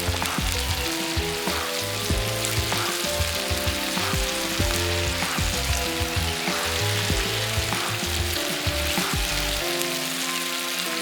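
Food frying, a steady sizzle with scattered pops and crackles, under background music whose bass line drops out near the end.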